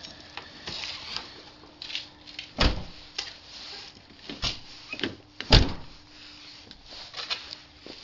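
Clicks of car latches and handles, with two heavier thumps about three seconds apart as parts of the car are opened and shut by hand.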